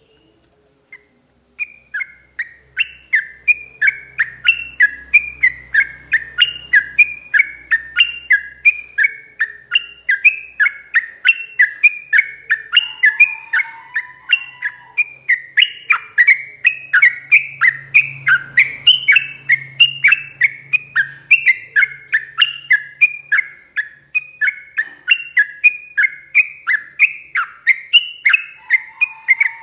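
Yellow-vented bulbul singing a long, unbroken run of short down-slurred notes, about three a second, starting a second and a half in.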